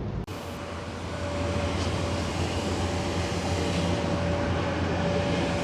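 Steady vehicle running noise: a low hum with a thin steady whine above it.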